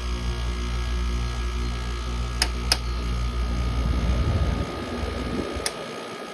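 Window air conditioner running with a steady hum and a low drone. A few sharp clicks sound, two close together about two and a half seconds in and one near the end, and the low drone drops away about four and a half seconds in.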